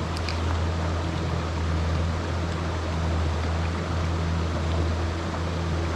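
Steady rush of mountain-stream water, with a constant low hum under it.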